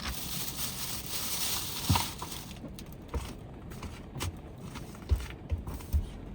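Rain hiss that drops away about two and a half seconds in, leaving a quieter background with scattered short knocks and clicks.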